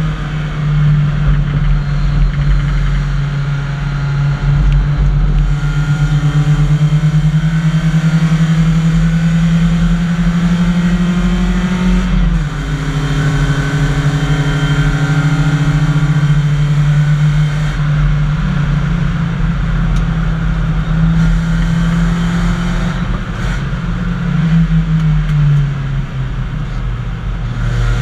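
BMW 318i race car's four-cylinder engine, heard from inside the cabin, running hard on track. Its pitch climbs slowly for about ten seconds, drops sharply about twelve seconds in, then holds near steady with small rises and dips, over a constant low rumble.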